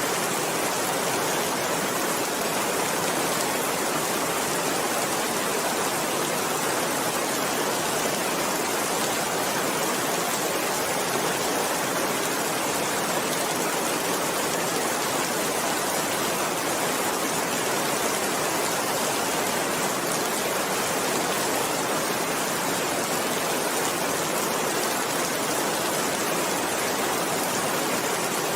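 Steady rain falling, an even, unbroken hiss with no thunder or individual drops standing out.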